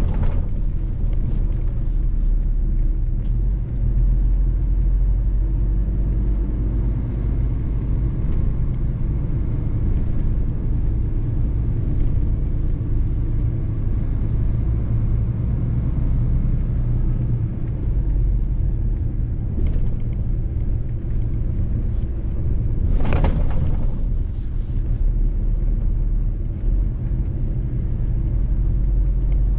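Mercedes-Benz truck on the move: a steady low engine and road rumble. About three-quarters of the way through comes a brief, louder rushing sound lasting about a second.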